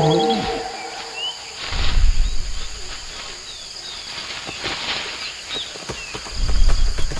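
Rainforest ambience: short chirping bird calls over a steady high insect drone. Two deep low rumbles swell up, one about two seconds in and a louder one near the end.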